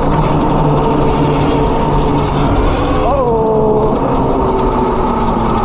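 Electric pit bike's motor whining while it is ridden, over a dense rushing noise. About three seconds in, the whine jumps up in pitch and then slides back down.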